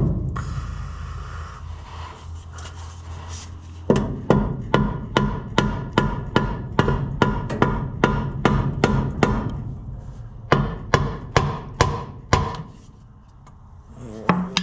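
Hammer striking the stuck oil pan of the air compressor's gas engine to break it loose: a quick run of sharp, ringing metal blows, about three a second.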